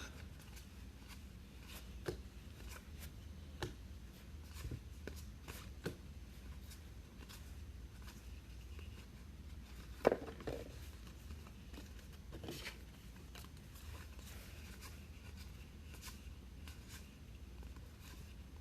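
Baseball trading cards being handled and sorted: scattered soft slides and light taps, the loudest about ten seconds in, over a low steady hum.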